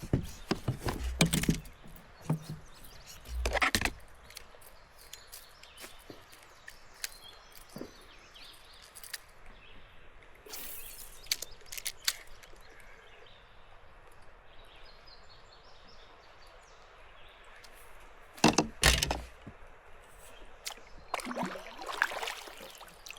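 A few scattered knocks and thumps, as of fishing gear bumping a plastic kayak, with quiet outdoor background between them.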